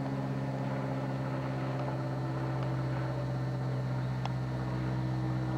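An engine drones steadily at one unchanging pitch, with a faint tick about four seconds in.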